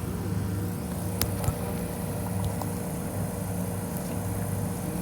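Steady low mechanical hum with a thin held tone over it, and two light clicks a little over a second in.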